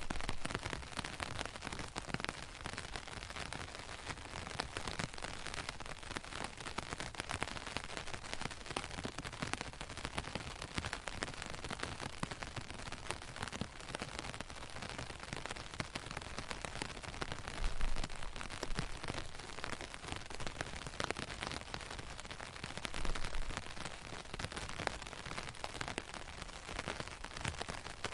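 Steady rain pattering: an even hiss made up of countless small drop hits, with a couple of brief low rumbles partway through.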